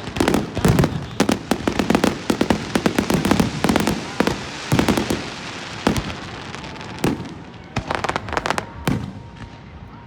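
Fireworks going off in a rapid string of crackling pops and bangs, dense at first and thinning to scattered bangs after about six seconds.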